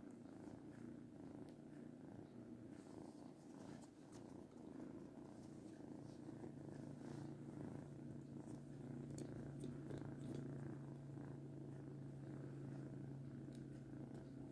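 Kitten purring close by: a faint, steady low purr that grows louder about six seconds in.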